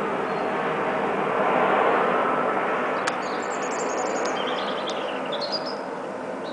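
Jet noise from a Boeing 777-200ER airliner with Rolls-Royce Trent 800 engines on descent: a steady rush that slowly fades as the aircraft moves away. Small birds chirp briefly around the middle, and a single sharp click comes about three seconds in.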